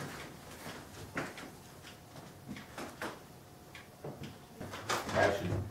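A few scattered light knocks and rustles, about one a second, then a voice calls "Action" near the end.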